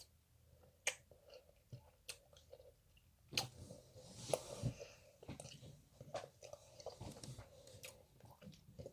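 Close-miked chewing of tangerine tanghulu, sugar-glazed tangerine pieces, with irregular sharp crunches and clicks as the candy shell breaks between wetter mouth sounds.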